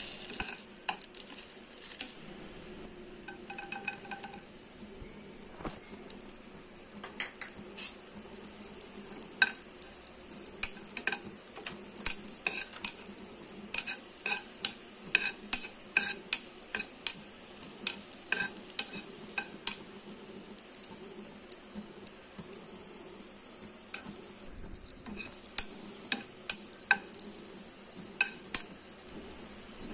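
Cashews and then raisins frying in ghee in a non-stick pan, with a steady sizzle. Frequent irregular clicks and scrapes come from a utensil stirring them against the pan.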